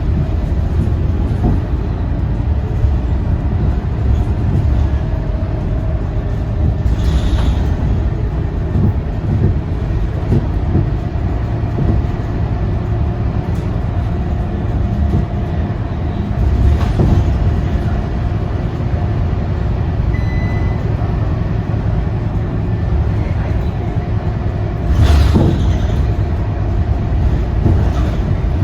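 Scania K230UB city bus under way, heard from on board: a steady diesel engine and road rumble with a faint steady whine. Two short, louder knocks or rattles come about seven seconds in and again near the end.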